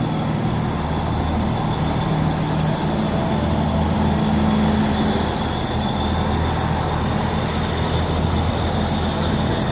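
Steady running of idling heavy trucks' diesel engines: a continuous low hum with a faint high whine above it.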